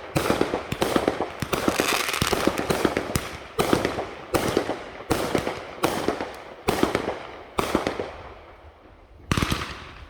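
Fireworks going off in quick succession, sharp bangs each trailed by crackling. The crackle is dense for the first few seconds, then the bangs come about every three-quarters of a second, tailing off before one last bang near the end.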